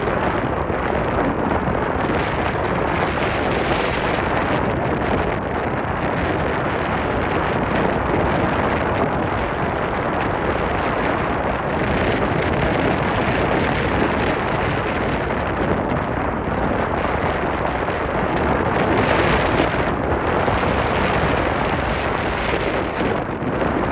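Strong cyclone wind blowing hard across the microphone: a loud, steady rushing noise that swells and eases slightly, perhaps with surf mixed in.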